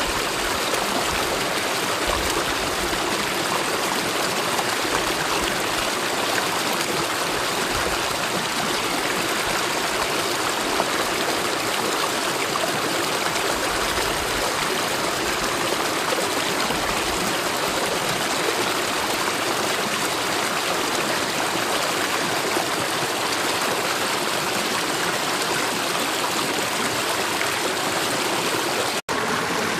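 Mountain valley stream flowing steadily over rocks, an even wash of water sound. There is a momentary break in the sound shortly before the end.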